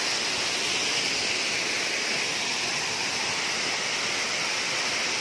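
Steady rush of flowing water, an even hiss with no separate splashes or hits.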